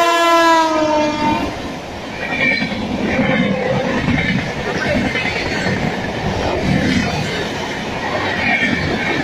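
A WAP7 electric locomotive's horn sounds as it passes, dropping in pitch and dying away about a second and a half in. Then the double-decker express coaches rush past at speed with a steady clatter of wheels on the rails.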